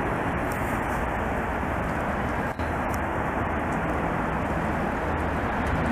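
Freight train of autorack cars rolling past on the next track: a steady rumble and rush of steel wheels on rail.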